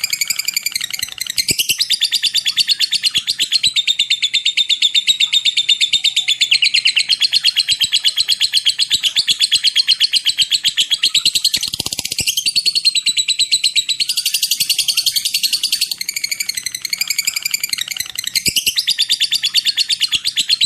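Lovebird giving its long chattering trill (ngekek): very fast, sharp, high notes run together in long unbroken strings, with a few brief breaks.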